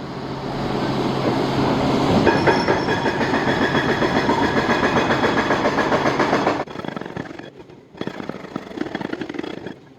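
Excavator-mounted hydraulic hammer pounding in a fast, continuous run of impacts that stops abruptly about two-thirds of the way through, followed by a few shorter bursts near the end.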